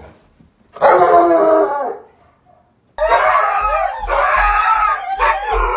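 A dog howling in drawn-out, wavering calls: one short howl about a second in, then after a pause a longer one that breaks twice.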